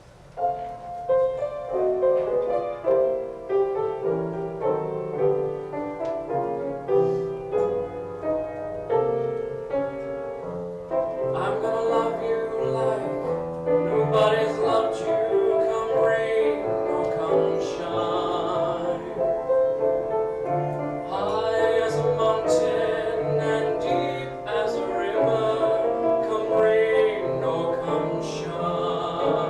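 Piano playing a slow ballad introduction, joined about eleven seconds in by a man singing with vibrato over the piano accompaniment.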